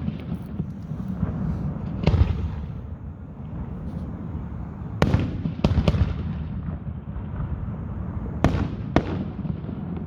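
Aerial fireworks bursting overhead: about five sharp bangs, two of them in quick pairs, over a steady low rumble.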